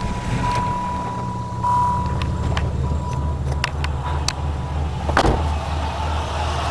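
1996 Pontiac Grand Prix V6 engine running at a steady idle with an even low pulse. A faint steady high-pitched tone sounds for the first few seconds, with a few light clicks and a thump about five seconds in.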